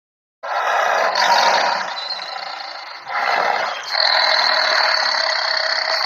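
Tiger calling with loud, harsh, drawn-out growls that start abruptly, with two brief breaks about three and four seconds in.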